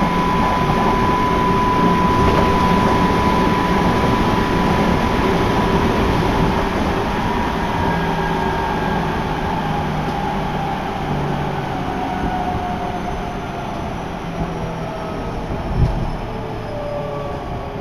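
Seibu Ikebukuro Line electric train running, heard from on board: a steady rumble and rushing noise with a motor whine that glides down in pitch over the second half as the train slows. A single short thump near the end.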